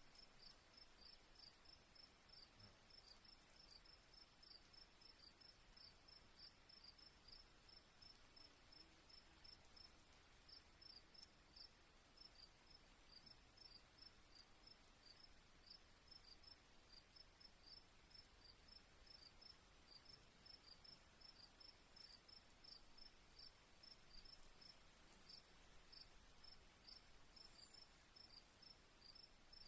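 Crickets chirping faintly: one steady, high, unbroken trill, and over it a second cricket's short chirps repeating a few times a second.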